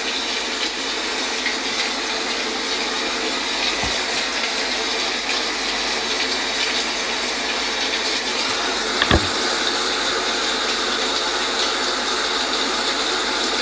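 Steady rain falling. A brief thump comes about four seconds in, and a louder one about nine seconds in.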